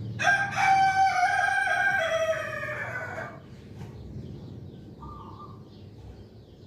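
A rooster crowing once, a long call of about three seconds that drops in pitch at the end. About five seconds in comes a faint short call.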